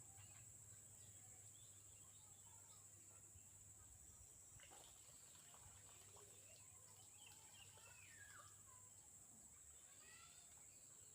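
Near silence with faint, scattered wild bird chirps and whistles, including one falling call about eight seconds in, over a steady high hiss.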